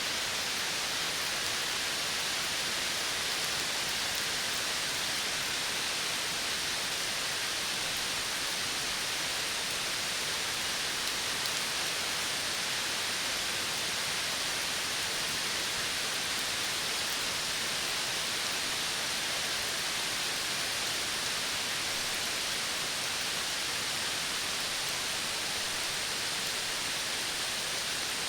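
Steady, even hiss of an outdoor nature ambience, loudest in the high range, with no distinct calls or events standing out.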